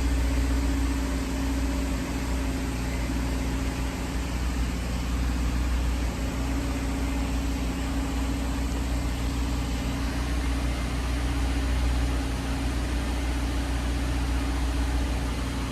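2021 Subaru Forester's 2.5-litre flat-four engine idling steadily, running on a freshly installed replacement battery.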